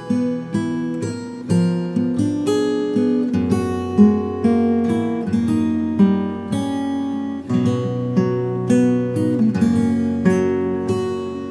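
Relaxing acoustic guitar music: plucked notes and chords ringing on, with a new note struck about every half second to a second.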